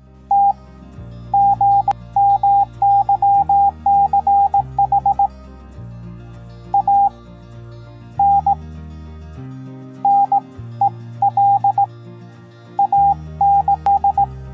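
Electronic beeps at one steady pitch, short and longer tones in irregular groups like Morse code, over soft background music with slow chord changes.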